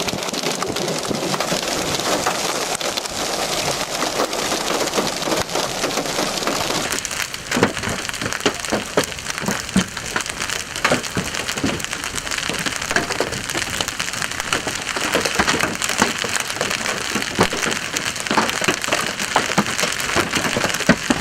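Hail and heavy rain pelting down in a dense, loud hiss. From about seven seconds in, many sharp hits of individual hailstones striking stand out over the hiss.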